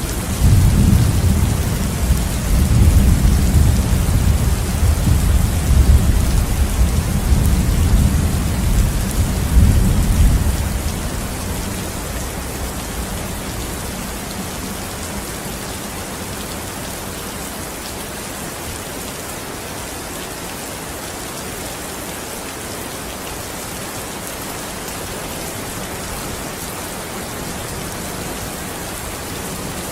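Steady rain falling as an even hiss, with a long low roll of thunder rumbling through the first ten seconds or so and dying away about eleven seconds in.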